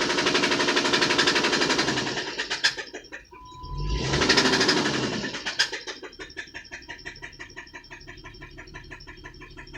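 Chrysler engine revved twice with a rapid knocking, then dropping back to a low idle with a steady ticking knock. The owner ties the knock to low oil pressure, shown by the oil pressure warning light.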